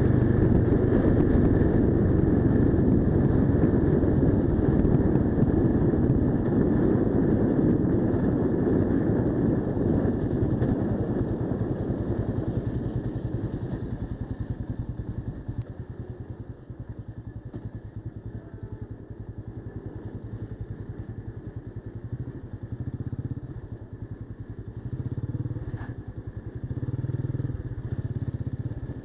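Mash Cafe 400 single-cylinder motorcycle running on the road, loud and steady at first. About halfway through it eases off to a quieter, lower note, then picks up again in short surges near the end.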